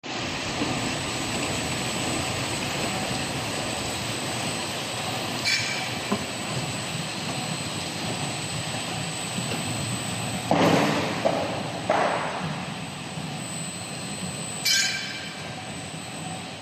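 Industrial plastic crate washing machine running: a steady wash of machine and spray noise, with a few brief louder bursts along the way.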